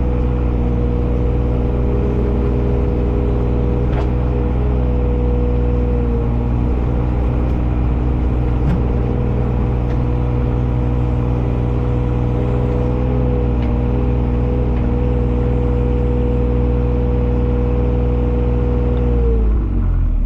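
A vehicle engine running at a steady speed, its pitch falling sharply near the end as it drops back toward idle.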